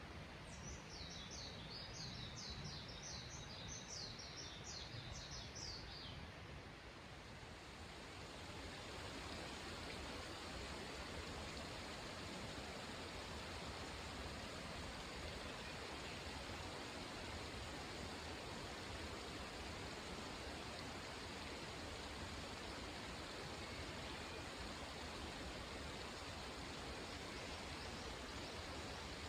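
Running water rushing steadily, a little louder and fuller from about eight seconds in. In the first six seconds a songbird gives a quick run of about fifteen short, high, falling notes.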